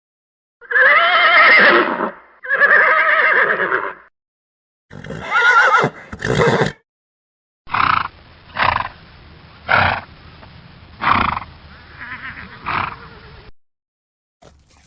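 Horse neighing: two long, pitched whinnies, then a shorter neigh, followed by about six short, sharp sounds roughly a second apart.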